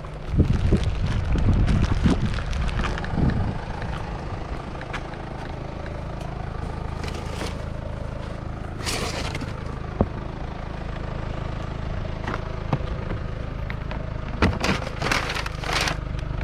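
Rummaging through a pile of discarded items: scraping, rustling and knocks, busiest in the first few seconds and again near the end, over a steady low rumble.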